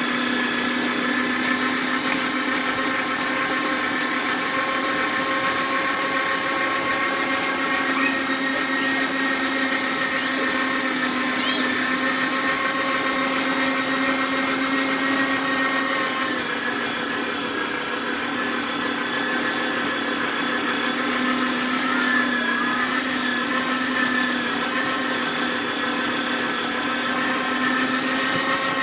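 Kenwood electric meat grinder's motor running steadily while grinding meat: an even whine with a slight sag in level about seventeen seconds in.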